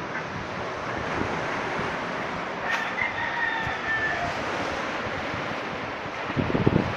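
Sea surf and wind making a steady rushing noise, with a single bird call held for about a second and a half about three seconds in, and gusts buffeting the microphone near the end.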